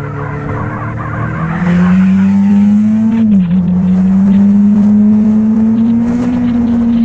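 Motorcycle engine running under way: the revs climb about a second and a half in, dip briefly near the middle, then hold steady and high.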